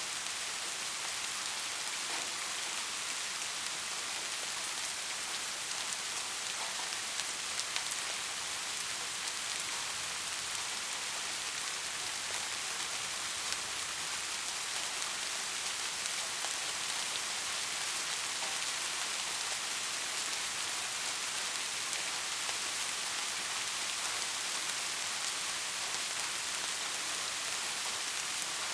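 Steady rainfall, an even hiss of rain on a surface with faint ticks of separate drops scattered through it.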